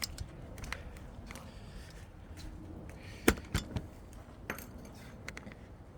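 Light metallic clinks and taps as a dip belt and weights are handled and tied together, with one sharper knock about three seconds in.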